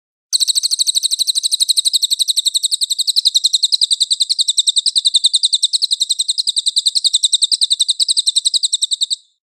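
A songbird's rapid, harsh trill of evenly repeated chirps, about ten a second, held for nearly nine seconds, starting and stopping abruptly.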